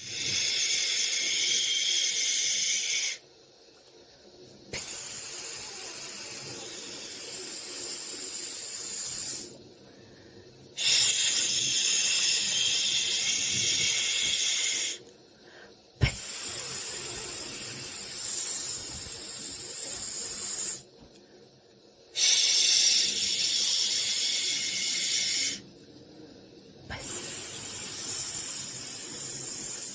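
White-noise hiss for soothing a baby, coming in long shushing stretches of four to six seconds with pauses of about a second and a half between them. There is a sharp click about sixteen seconds in.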